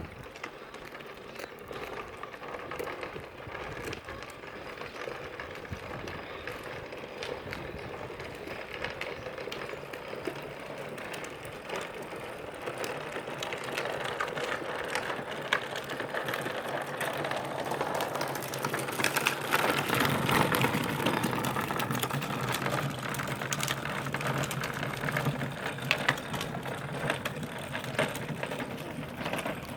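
A small motor and gears whirring, with rapid clicking and rattling, from a ride-on toy tractor. It gets louder about two-thirds of the way through.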